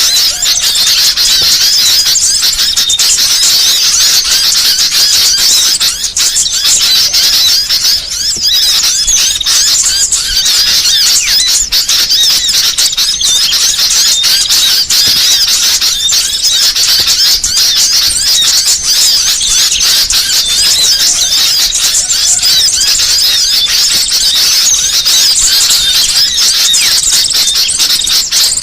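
Small songbirds chirping and twittering in a dense, continuous chorus of rapid high-pitched notes and trills.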